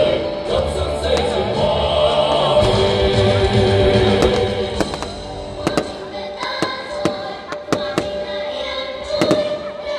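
Choral music with a band plays throughout. From about halfway through, fireworks burst overhead in a quick string of sharp bangs over the music.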